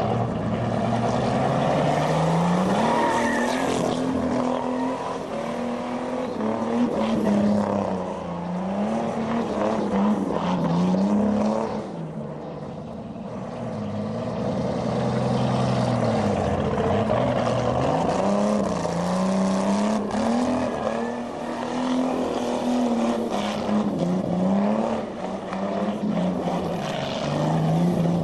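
Chevrolet Chevette's engine revving hard, its pitch climbing and falling over and over every second or two as the rear tyres spin in smoky burnouts and donuts. It eases off briefly about twelve seconds in.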